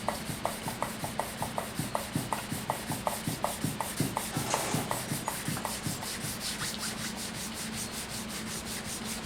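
Wet sandpaper rubbing back and forth over a wooden stave drum shell, with lots of water on it, in quick even strokes about three to four a second. The strokes blur into steadier rubbing in the last few seconds.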